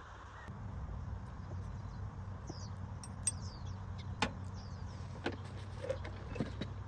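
A car engine running steadily with a low hum that comes in abruptly about half a second in, with scattered light clicks over it.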